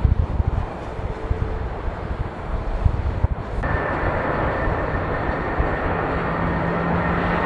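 Jet airliner engines at takeoff thrust growing louder, with a steady high whine coming in about halfway through over a rising rush of noise. Wind buffets the microphone in the first half.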